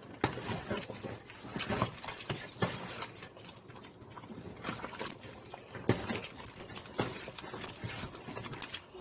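A spoon stirring soup in a cooking pot, knocking and scraping against the pot at irregular intervals.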